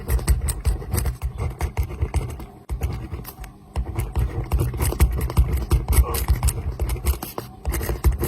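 Close-up pen writing on paper: quick, irregular scratching strokes with soft low thuds of the hand and pen against the desk.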